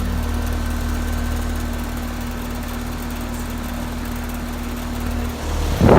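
Bryant heat pump outdoor unit running steadily in heat mode with a low hum and a steady tone. Shortly before the end it shuts down: the hum and the tone stop, followed by a brief loud rush of noise.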